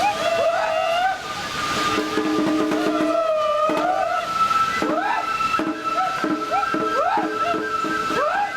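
Lion-dance festival music played on Japanese transverse flutes: one long high note held throughout, with other flute phrases of quick sliding notes repeating beneath it.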